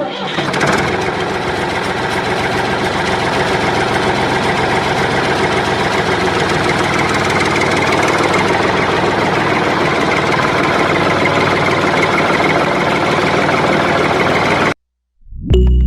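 A motor running steadily, then cutting off abruptly near the end.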